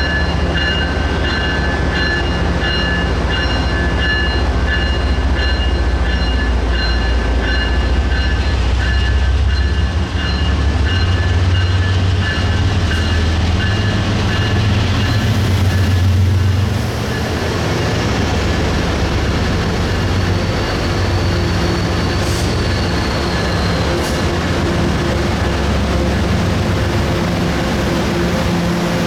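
MBTA commuter rail train pulling out, its diesel locomotive running with a steady deep rumble that builds over the middle of the clip and eases off a little past halfway.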